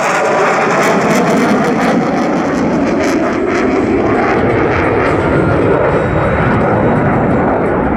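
Jet noise from the F-22 Raptor's twin Pratt & Whitney F119 turbofans during a display pass: a loud, steady roar with a crackle in the first few seconds.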